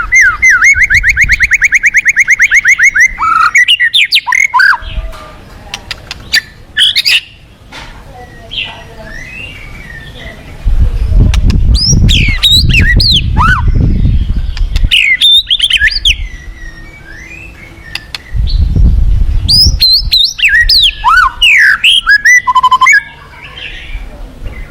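White-rumped shama (murai batu) singing: a fast trill of rapidly repeated notes at the start, then varied sliding whistles and chattering phrases. Two stretches of heavy low rumble run underneath, about ten seconds in and again near the end.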